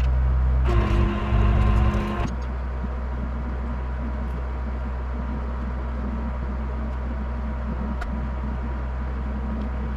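Rollback tow truck's engine running steadily, with a louder whine over it for about a second and a half near the start.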